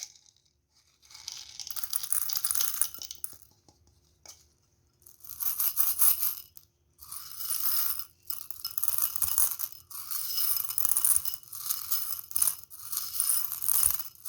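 Candy being handled in a series of short bursts of rattling, each a second or so long with brief gaps between.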